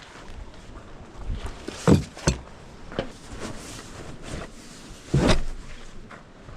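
Scattered knocks and thumps of camping gear being handled during packing up, the heaviest a dull thud about five seconds in.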